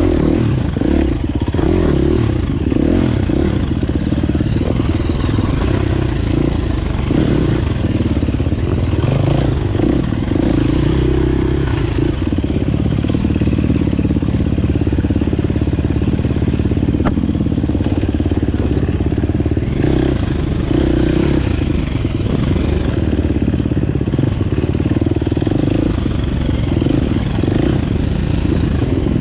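Dirt bike engine running continuously, its revs rising and falling as it is ridden.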